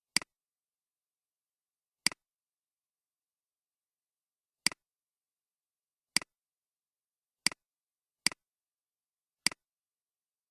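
Computer mouse button clicked seven times at uneven intervals, each click a short, sharp double snap, with nothing else heard between them.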